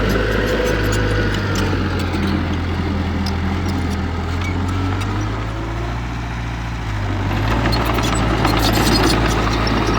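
Diesel engine of heavy earthmoving machinery running steadily, its note shifting a couple of times as the load changes. It grows louder near the end, with a clatter of knocks.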